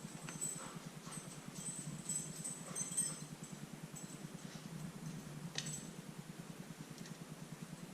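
A steady low hum from an unseen machine, with a few light metallic clinks of hand tools on tractor parts.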